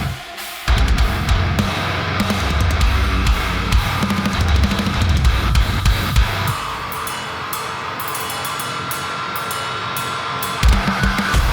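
Playback of a deathcore track in progress: distorted guitars and a drum kit with kick, cymbals and hi-hat. There is a short break just at the start. About six and a half seconds in, the low end drops out for about four seconds, then the full band comes back in near the end.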